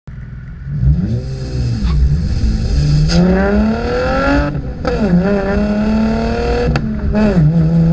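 2015 Chevrolet Camaro 1LT's V6 engine heard through its dual-mode performance exhaust, revving up and dropping back several times. There is a sudden fall in pitch a little before the middle, and a steady hold later.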